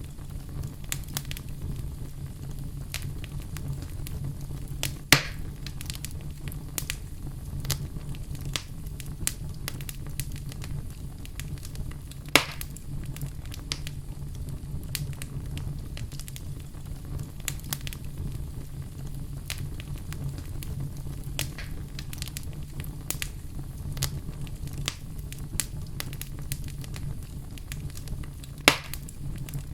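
Fire burning in a fireplace: a steady low rumble of flames with frequent small crackles, and three loud pops, about 5 s in, about 12 s in and near the end.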